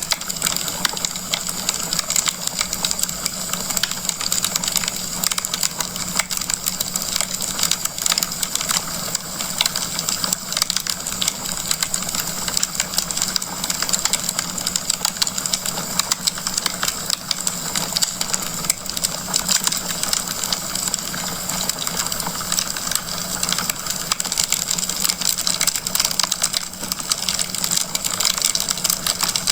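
Wood fire in a fireplace crackling, with a dense, steady stream of small pops and crackles over a constant hiss and a low steady hum.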